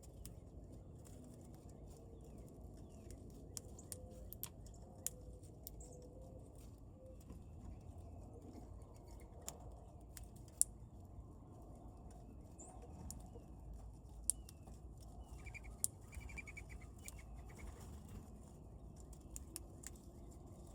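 Birds at a feeder: scattered sharp clicks and taps, with a few short chirps and a quick run of notes a little past the middle, over a low steady background rumble.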